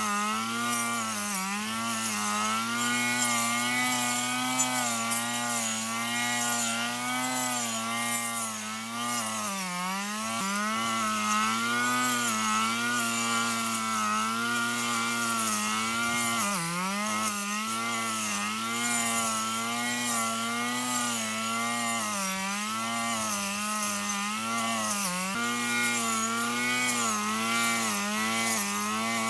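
Repaired petrol lawn mower running steadily, its pitch wavering and dipping briefly every few seconds.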